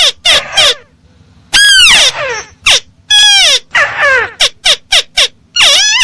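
Lure recording of a tikusan crake calling: loud, harsh calls that fall in pitch. Some are drawn out and some come short in quick runs, with a pause of about half a second about a second in.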